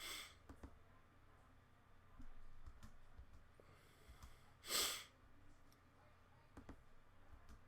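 Near-silent room tone with a few faint clicks, and one short breath into the microphone about five seconds in.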